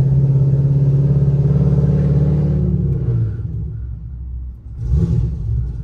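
Chevrolet Camaro SS V8 engine heard while driving, a steady low hum that eases off about three seconds in. A short louder surge or thump comes near the end.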